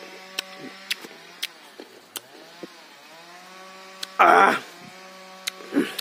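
Raw amla (Indian gooseberry) being chewed, with crisp crunching clicks about every half second. A loud breathy burst about four seconds in and a shorter one near the end, over a faint steady hum.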